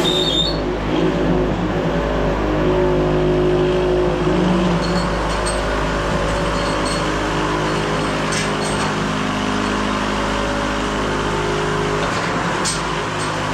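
Wood-Mizer LT70 sawmill running steadily, its engine note shifting a little in pitch in the first few seconds and then holding even, with a few faint clicks.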